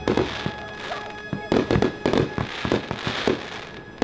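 Aerial fireworks going off: an irregular run of about a dozen sharp bangs with crackling between them.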